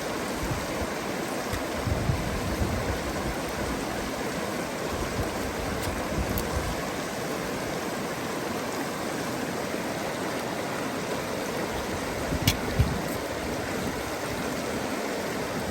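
Steady rushing of flowing river water, with a couple of short knocks about twelve and a half seconds in.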